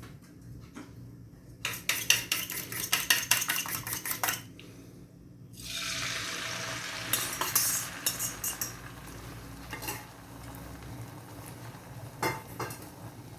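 A metal utensil clicks rapidly against a bowl in a fast stirring or beating rhythm for a couple of seconds. After a short pause, food hits hot oil in a pan with a sudden loud sizzle that keeps frying, fading slowly, while a utensil clinks against the cookware a few more times.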